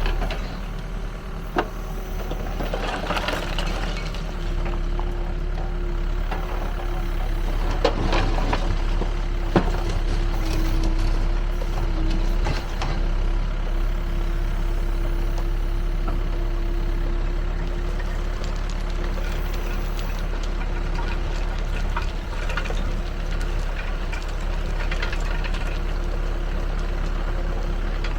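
Backhoe loader's diesel engine running steadily, with a steady whine through most of it and a few sharp knocks.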